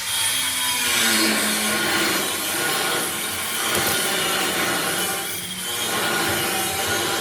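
A power tool working on material, a loud steady rasping noise with a few wavering low tones beneath it.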